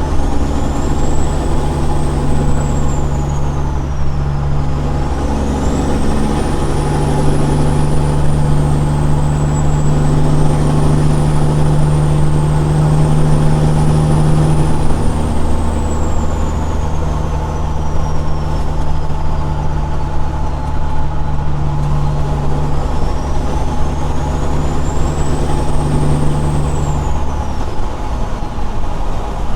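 Straight-piped Caterpillar 6NZ diesel in a big-rig truck, pulling steadily down the road with a loud, deep drone that shifts slightly in pitch. A faint high whine drifts slowly up and down over it, and the drone drops briefly near the end.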